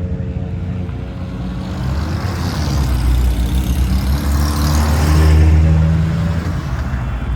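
Car engines running as a line of cars drives past on the way onto the track, the sound swelling as one passes close about five seconds in.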